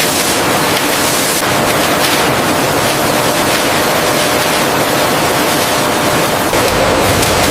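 Loud, steady rush of sea water, like surf or water pouring, with a faint steady hum underneath.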